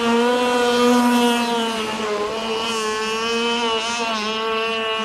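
Gas RC boat's Zenoah two-stroke engine running at high, steady revs as the boat speeds along, its pitch dipping slightly about two and four seconds in.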